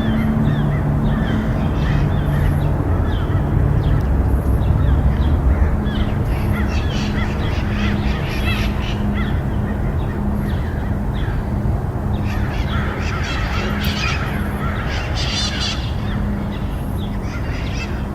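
A mass of birds calling, many short harsh squawks overlapping, busiest in the second half, over a steady low hum.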